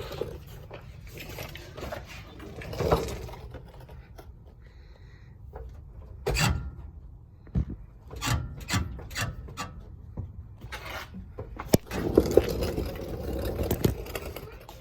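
Irregular knocks and scraping creaks from the suspension of a 2019 Toyota Tundra TRD Pro, over a steady low rumble: the noise of its failing Fox shocks. The knocks bunch up in the middle, and a longer scraping stretch comes near the end.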